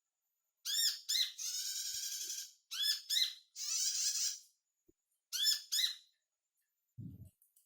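Sunbird (Indonesian 'kolibri') calls: bursts of sharp, high chirps, each run of chirps followed by a fast chattering trill, repeated three times. A short low thump comes near the end.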